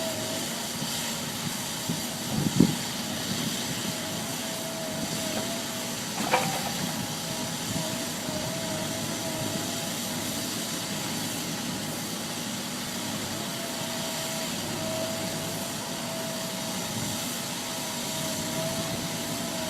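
Heavy machinery running steadily with a wavering whine over the noise, a dull thump a couple of seconds in and a sharp knock around six seconds in.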